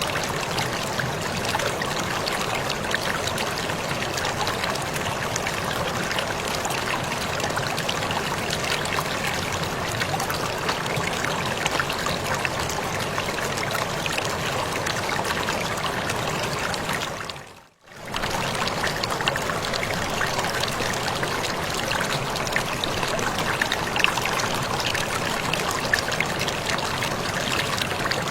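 Waterfall splashing and rushing steadily. It briefly fades out to near silence and back in about two-thirds of the way through.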